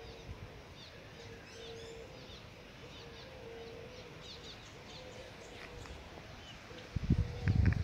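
Outdoor ambience of many small birds chirping and twittering over a low background hiss. About seven seconds in, a burst of loud low rumbling cuts in.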